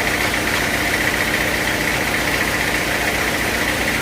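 A sawmill's engine idling steadily, with a fast, even low pulse and no change in speed.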